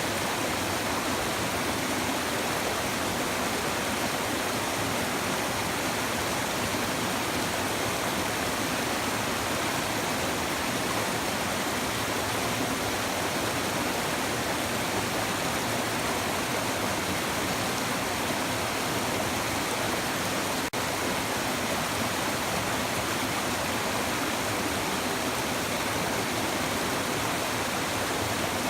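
Babbling shallow river, water running steadily over stones in an even, unbroken rush.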